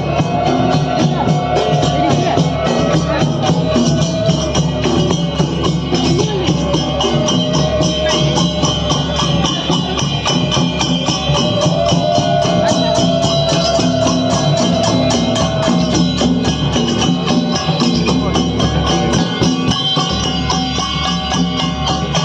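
Danda Nacha folk music: fast, steady percussion with jingling strokes and a wavering melody line over it.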